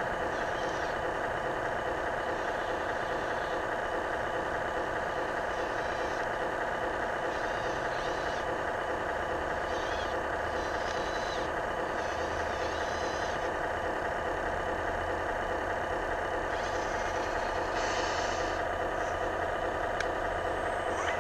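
RC4WD 4200XL hydraulic RC excavator running steadily, with short higher-pitched bursts on and off as it works.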